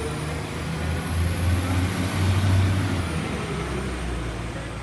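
Class 195 diesel multiple unit pulling away: its diesel engines run with a low hum that swells to its loudest between about one and three seconds in and then eases, with a thin high whine that rises and falls.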